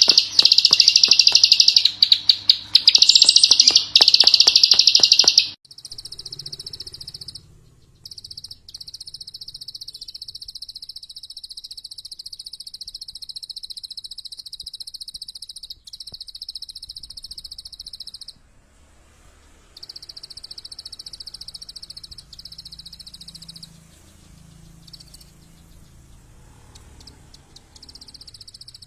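A small songbird, the 'klik klik' bird used in masteran song-tutoring recordings, giving a rapid run of clicking notes. These are very loud for about the first five seconds, then give way to fainter, continuous high buzzy trills in long bouts of several seconds with short pauses between them.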